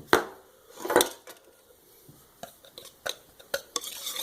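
A utensil clinking and scraping against a container while the seasoned flour dredge is stirred: two sharp knocks in the first second, then scattered clicks that thicken into steady clinking and scraping near the end.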